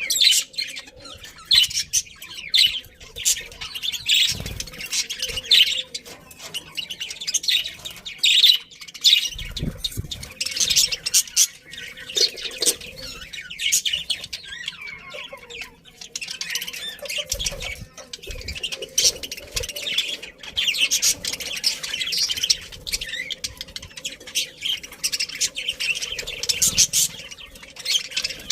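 A colony of budgerigars chirping and squawking together in a continuous, busy chatter of many short high calls. A few dull low thumps sound under it.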